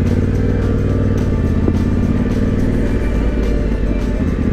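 Yamaha Ténéré 700's parallel-twin engine running at a steady pace on the move, with road and wind noise.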